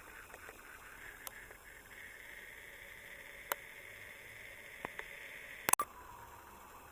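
Faint steady hiss with a few sharp, scattered clicks, the loudest a quick double click near the end.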